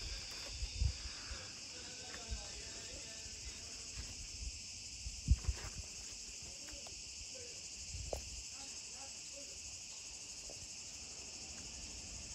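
Steady high-pitched chirring of insects, with a few dull thumps, the loudest about five seconds in.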